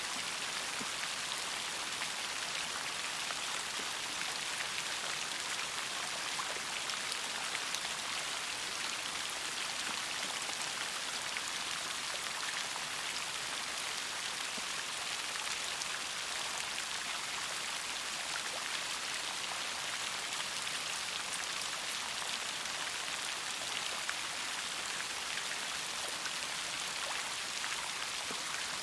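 Steady rain: an even hiss of falling rain, dotted with many fine, separate ticks of single drops striking a surface.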